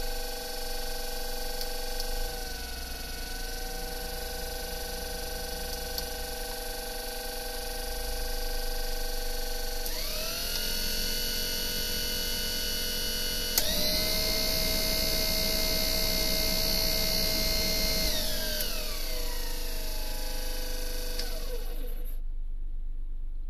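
Daihatsu Hijet engine running with a pitched, machine-like whine. Its pitch steps up twice, about ten and fourteen seconds in, falls back after about eighteen seconds, and dies away near the end. This is the abnormal noise the truck is making.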